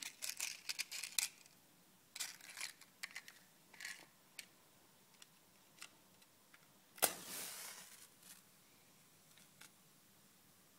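Small clicks and scratches of a matchbox and match being handled, then about seven seconds in a match is struck and flares with a hiss that fades over about a second, to light the firelighters in the stove.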